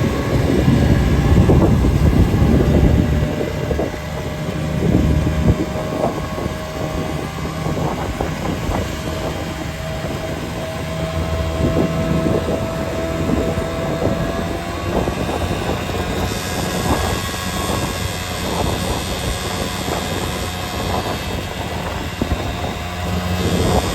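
A vehicle driving: a steady low engine and road rumble, loudest in the first three seconds, with a faint steady whine.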